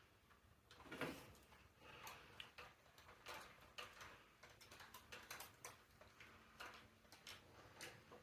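Faint, irregular clicks and taps of metal bike parts being handled and fitted at the wheel hub, with a somewhat louder knock about a second in.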